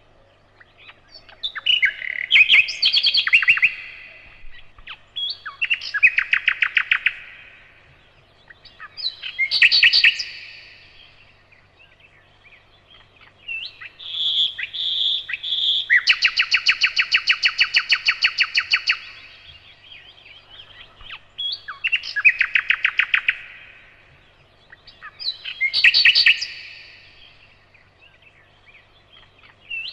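Nightingale singing: six loud phrases, each a fast run of repeated notes, with pauses between them. The longest phrase, in the middle, opens with three clear notes and goes into a long rapid trill.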